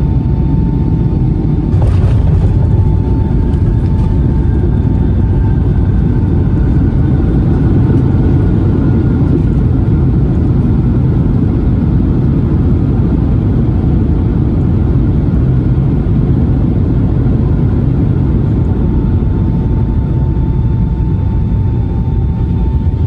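Jet airliner cabin noise inside a Boeing 757-300: a loud, steady low rumble with a steady whine, and a second whine that slowly falls in pitch. A brief sharp knock about two seconds in.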